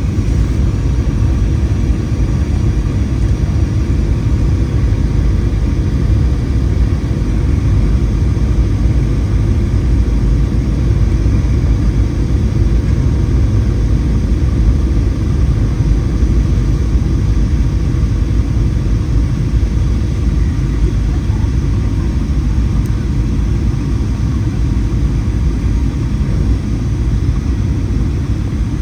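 Steady low cabin drone of a Boeing 737-800 in flight, heard from inside the cabin: the noise of its CFM56-7B engines and of the airflow over the fuselage, even and unbroken.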